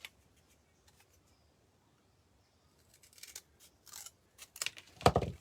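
Scissors cutting, a few crisp snips in the second half, followed near the end by a louder thump of something set down on the table.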